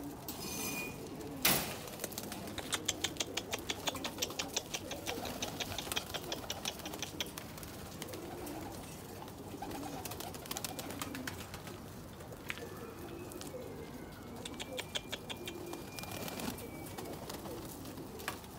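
Domestic pigeons cooing steadily in a loft. A single sharp knock comes about a second and a half in, and a quick run of clicks, about five a second, follows for several seconds, with a shorter run near the end.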